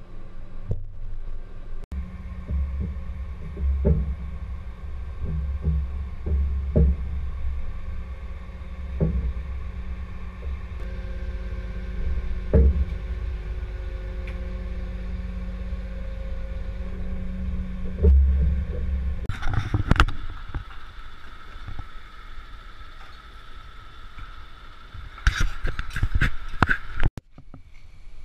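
Scania lorry engine running steadily to power the Fassi F800 loader crane's hydraulics, with scattered knocks and clunks. About two-thirds of the way in, a higher steady whine joins, with sharp metallic clatters. Near the end the sound drops suddenly.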